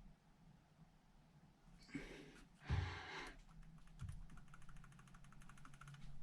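Workbench handling sounds: a clunk about two and a half seconds in, a softer knock over a second later, then a fast run of fine ticks.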